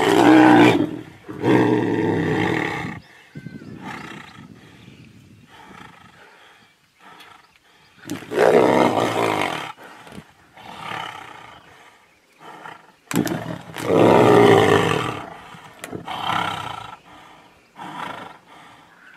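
Tigers roaring in about five loud bouts of a second or two each, with quieter stretches between, as they wrestle.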